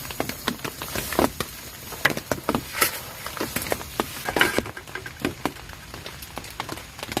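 Rain pattering, with an irregular stream of sharp drop taps of varying loudness, several a second.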